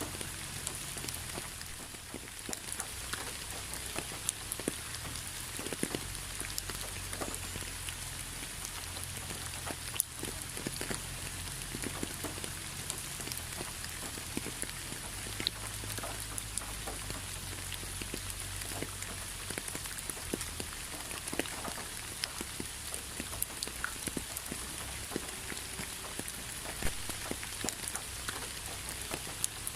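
Steady rain with many separate drops ticking on a surface, one sharper drop about ten seconds in, over a low steady hum.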